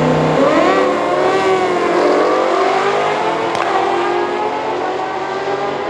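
Drag-racing engine revving, its pitch rising and falling sharply in the first two seconds, then running on at a steadier note.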